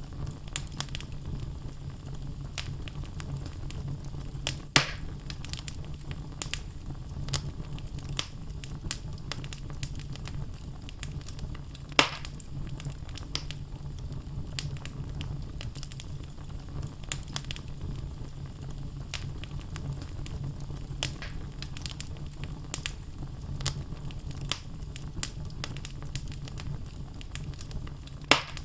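Wood logs burning in a fireplace: a steady low rumble of flames with frequent small crackles and pops. A few sharper, louder pops come about five and twelve seconds in and near the end.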